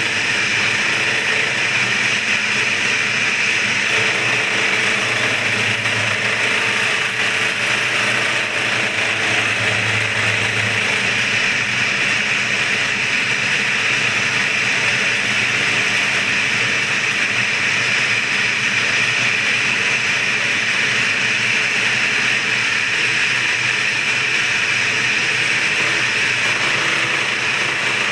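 Yamaha V80 engine block's mating face being ground flat against an abrasive, a steady continuous scraping.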